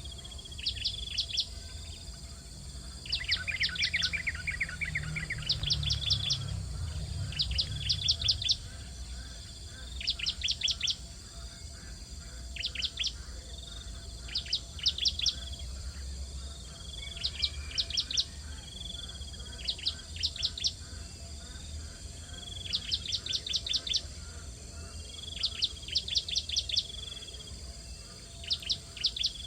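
Bar-winged prinias calling at the nest: short bursts of rapid, high chirps repeated every second or two, with a lower chattering run a few seconds in. A low rumble sits under the calls for a few seconds near the start.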